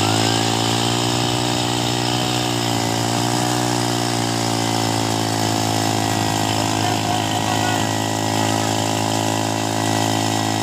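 Small petrol engine running steadily at high speed, its pitch wavering slightly about two to four seconds in.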